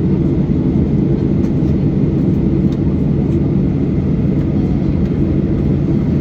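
Steady low drone of a Boeing 737-800's CFM56-7B jet engines heard from inside the passenger cabin, with a few faint light rattles.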